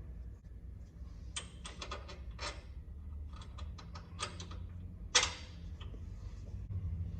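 Tools and metal parts clinking and knocking in a series of sharp irregular clicks, the loudest knock about five seconds in, over a steady low hum.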